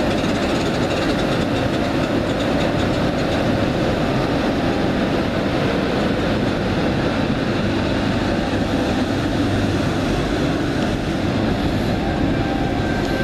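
A Class 90 electric locomotive hauling a rake of Mark 3 coaches past at the platform: the steady rumble and clatter of steel wheels on the rails. A faint steady whine comes in near the end.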